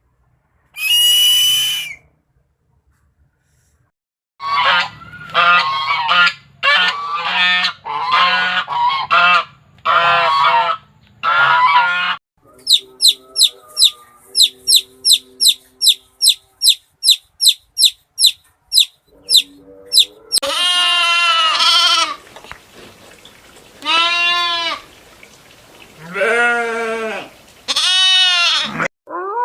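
Farm birds calling, led by geese honking: one short high call, then a run of about seven honks, a fast train of about fifteen sharp chirps, and near the end four long calls that rise and fall in pitch.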